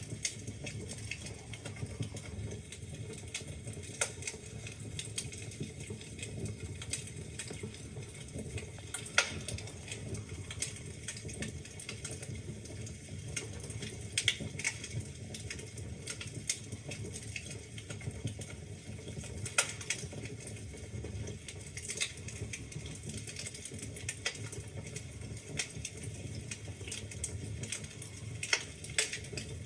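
Wood fire burning in a fireplace, crackling with irregular sharp pops and snaps over a low steady rumble of the flames, a few pops louder than the rest.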